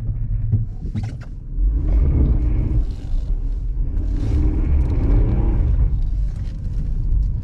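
Car driving slowly over packed ice with snow on top, heard from inside the cabin: a steady low rumble of engine and tyres, with a few sharp clicks about a second in.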